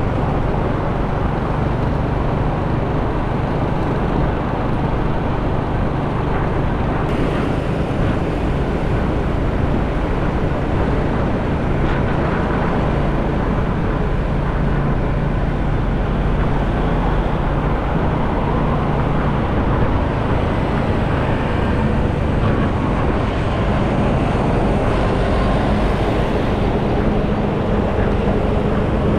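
A motorcycle riding steadily through city traffic: a constant rush of wind on the microphone over the hum of the engine, with the noise of surrounding traffic.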